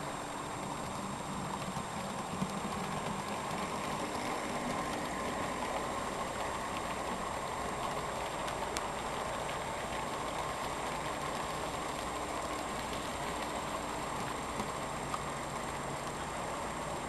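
Model train running on the layout track: a steady motor hum and wheel noise, with a few light clicks.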